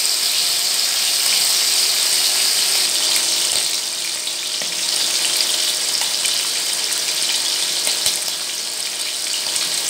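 Marinated prawns shallow-frying in hot mustard oil in a non-stick pan: a steady sizzle with scattered small pops and crackles.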